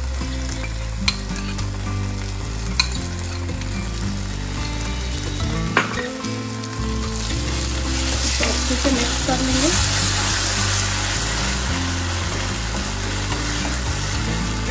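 A tomato-onion masala and a creamy sauce sizzling in a pan while a wooden spatula stirs them, with a few sharp taps of the spatula against the pan. The sizzling grows louder about eight seconds in, as the sauce is spread through the hot pan.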